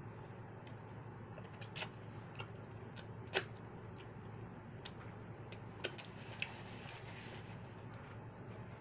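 Close-up eating sounds: scattered wet clicks and smacks of chewing, the loudest about three and a half seconds in and a quick cluster near six seconds, over a low steady hum.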